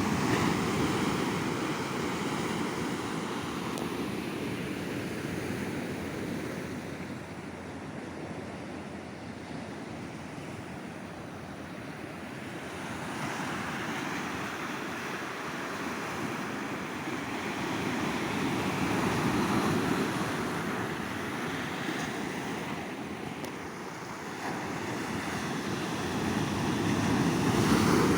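Sea surf washing onto a sandy beach: a steady rush of breaking waves that swells and ebbs slowly, with the loudest surges near the start, about two-thirds of the way in and at the end.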